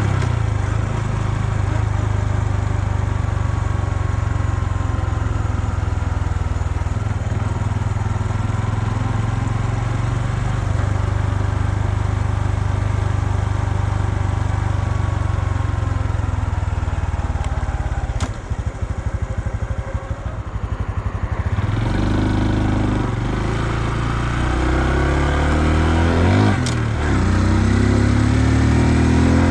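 2020 Honda Super Cub's single-cylinder engine heard on the ride. It runs at a steady cruise, drops to an uneven, quieter idle or coast about two-thirds of the way in, then picks up again with rising revs and a brief break in the rise near the end.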